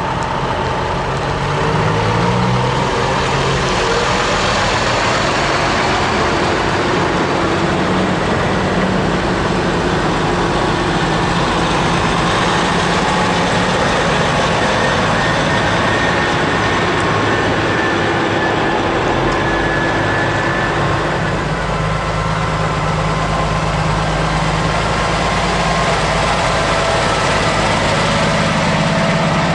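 Heavy trucks' diesel engines running and moving off slowly, the engine note stepping up about two seconds in and shifting again around two-thirds of the way through.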